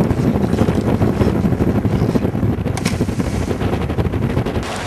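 Strong wind buffeting the microphone: a loud, irregular fluttering rumble, with one sharp crack about two-thirds of the way through.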